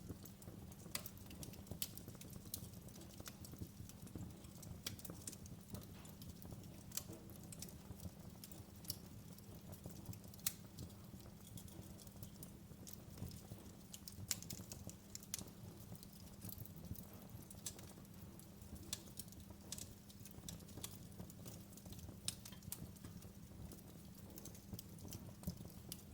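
Wood fire crackling in a fireplace: scattered sharp pops and snaps at irregular intervals over a steady low hiss and rumble of burning.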